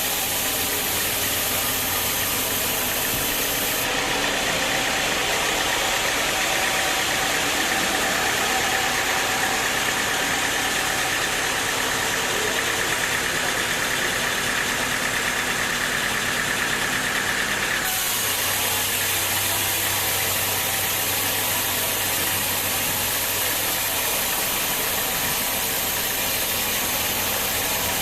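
Sawmill machinery running steadily: an engine-like drone with a constant hiss. About 4 s in, the sound shifts abruptly and a steady high whine joins it. The whine stops near 18 s, when the sound shifts back.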